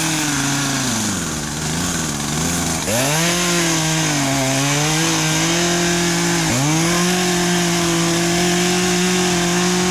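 Two-stroke chainsaw running at high revs. Its pitch sags and climbs back, jumps up suddenly about three seconds and six and a half seconds in, then holds steady and high for the last few seconds.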